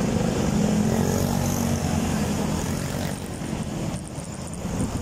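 A motor vehicle engine running steadily, a low hum over wind and road noise, easing off a little after about three seconds.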